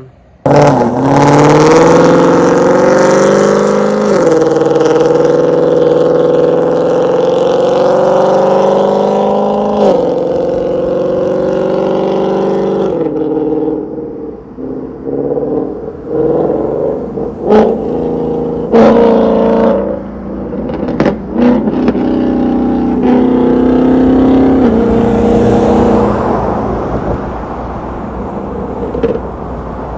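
2018 Mustang GT's 5.0 Coyote V8, with long-tube headers and a Borla catback exhaust, accelerating hard. Its pitch climbs and drops at gear changes about 4 and 10 seconds in. From about 13 seconds the note is lower and uneven, with several sharp cracks.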